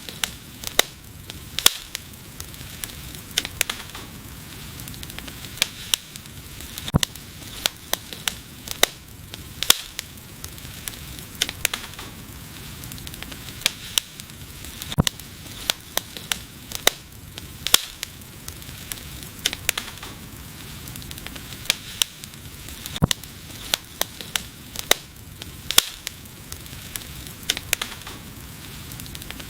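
Wood fire burning, with a steady low rumble and frequent sharp, irregular crackles and pops from the burning logs.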